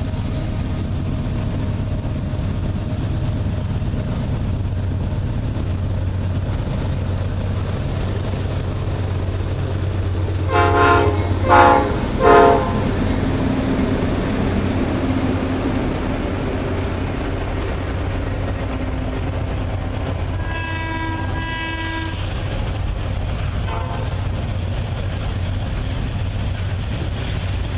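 Diesel locomotives working a heavy coal train upgrade, a deep steady rumble. About ten seconds in a locomotive horn sounds three quick blasts, and about ten seconds later two fainter blasts follow.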